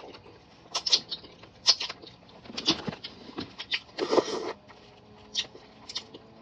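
Close-miked eating sounds: chewing and lip-smacking heard as a string of short wet clicks, with a louder smack about four seconds in.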